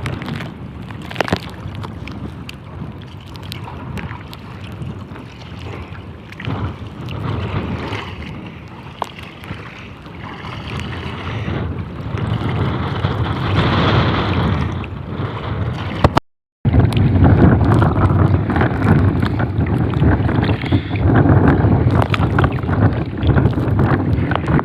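Strong wind buffeting the microphone over open water, a steady low rumble with scattered small clicks. It grows louder in the second half, after a brief dropout about two-thirds of the way through.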